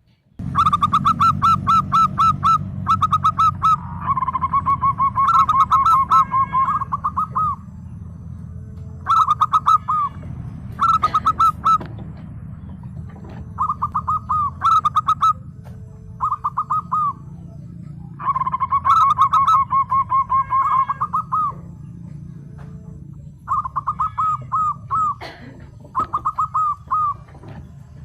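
Zebra dove (perkutut) singing: bouts of quick, evenly spaced staccato coos, each lasting a second to several seconds, broken by short pauses. A steady low rumble runs underneath.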